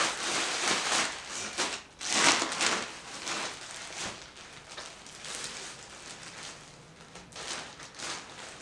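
Plastic packaging crinkling and rustling as clothing is handled and unwrapped, in irregular bursts that are loudest in the first few seconds and fainter toward the end.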